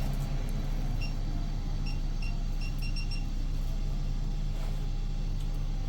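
Steady low engine hum of a running vehicle. Between about one and three seconds in, a quick, irregular run of short high electronic beeps sounds over it.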